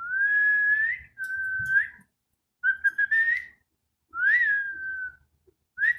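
Clear whistling in four long notes of about a second each, mostly held level with upward turns, the last rising and then gliding down. Short rising whistles begin near the end.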